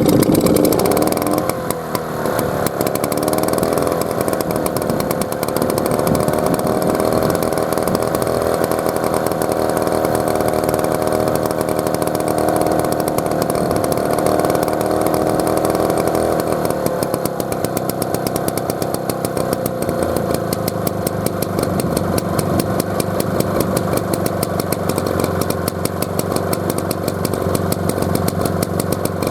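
Tohatsu T56D air-cooled stationary engine running just after starting. Its speed wavers for the first couple of seconds, then settles into a steady note. About sixteen seconds in, the sound turns rougher and more pulsing.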